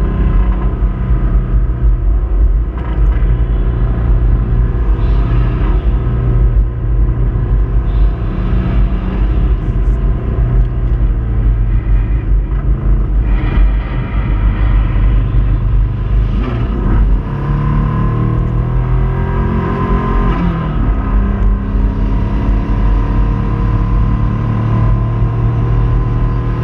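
Subaru Impreza flat-four engine running under load, revs rising and falling, with the noise of a failing connecting-rod bearing.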